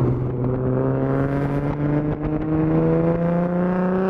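Nissan 350Z's V6 engine and aftermarket exhaust pulling under acceleration in one gear, its note rising steadily in pitch.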